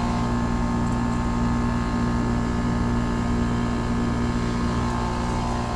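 5-ton 2001 Trane XE1000 Weathertron heat pump outdoor unit running steadily in heat mode: a low, even hum from the Climatuff compressor with several steady tones above it, over the rush of the condenser fan.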